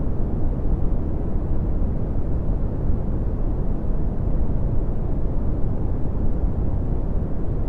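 Red (Brownian) noise: a steady, deep rumbling hiss with most of its energy in the low end and little above about 2 kHz.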